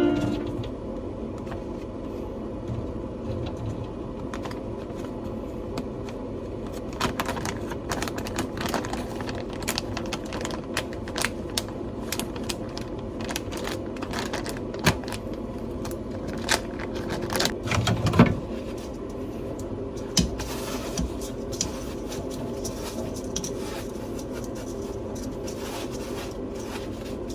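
Kitchen handling sounds: scattered clicks, taps and scrapes of things being picked up and set down, over a steady hum, with a louder knock about eighteen seconds in.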